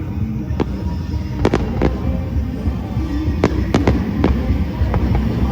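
A fireworks display: shells bursting in a run of sharp bangs and crackles, several close together in the middle, over a continuous low rumble.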